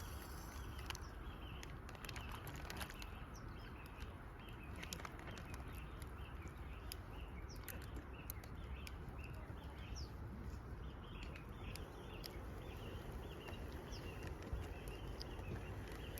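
Small birds chirping repeatedly over a steady low outdoor rumble, with scattered sharp ticks.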